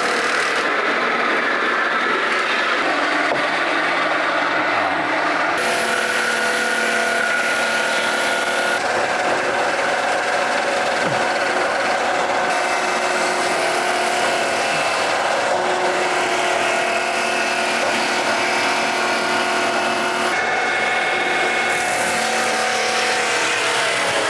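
Sawmill running under load, its engine droning steadily with several held tones while the blade cuts through a log; the higher hiss of the cut strengthens and fades every few seconds.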